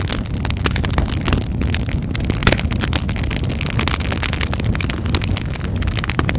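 Wood fire in a fireplace crackling: many sharp snaps and pops over a steady low rumble of burning, with one louder pop about two and a half seconds in.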